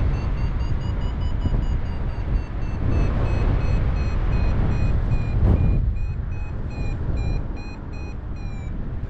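A paragliding variometer beeps over a steady rush of wind on the microphone. Its tone runs almost unbroken at first, then breaks into quick beeps about two or three a second in the second half: the vario signalling a climb in rising air. There is a brief knock about halfway through.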